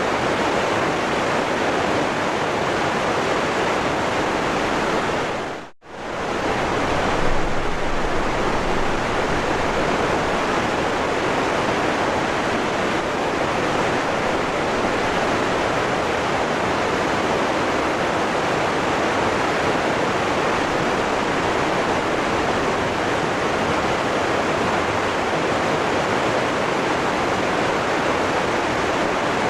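Waterfall rushing, a steady, even wash of water noise. About six seconds in it fades out briefly almost to nothing, then swells straight back.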